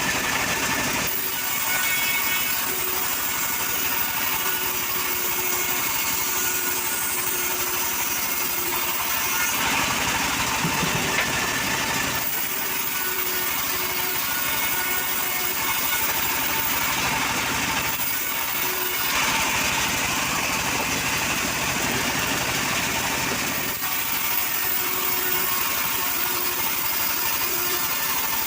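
An engine-powered saw running steadily, its sound shifting every few seconds as it works.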